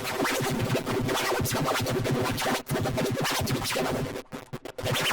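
Cartoon soundtrack run through heavy editing effects, heard as electronic-sounding music with scratch-like chopping. It breaks into a quick run of stuttering cut-outs near the end.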